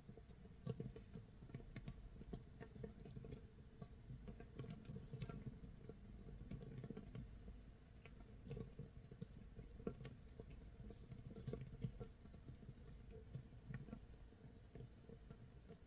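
Makgeolli base mash fermenting in an earthenware jar 24 hours in, its bubbles popping in a faint, irregular crackle of small clicks and pops, like light rain or rice crust crisping in a pan.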